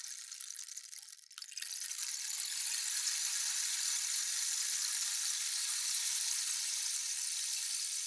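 Rainstick tipped over, its fill trickling down the tube with a rain-like patter. One pour ends a little over a second in; after a brief break a second, long, steady pour begins.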